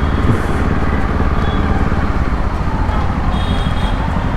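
Bajaj Pulsar NS200 single-cylinder engine running steadily through an aftermarket Akrapovic full-system exhaust while the bike is ridden.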